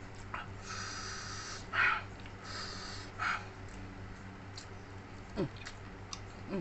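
A man eating spicy food sucks air in with a hiss and breathes it out sharply, twice in a row, as if to cool a burning mouth. Near the end come two short falling vocal sounds.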